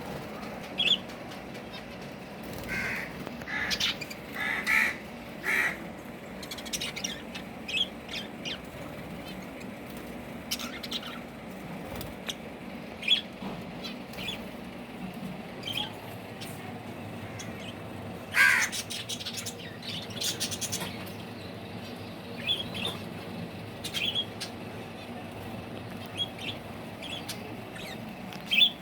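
Birds calling: short, scattered squawks and chirps, one at a time with gaps between them, over a steady low hum.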